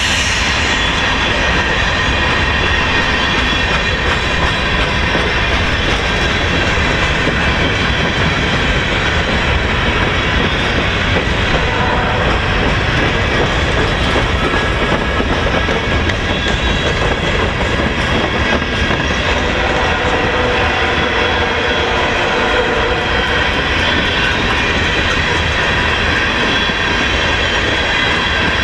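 Freight cars of a long train rolling past at close range: a steady rumble and clatter of steel wheels over the rails, with a faint, steady, high wheel squeal running through it.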